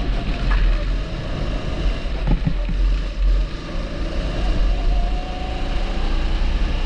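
A 270cc kart engine running under way, heard onboard with wind buffeting the microphone. Its note drops about two seconds in and rises again about four seconds in.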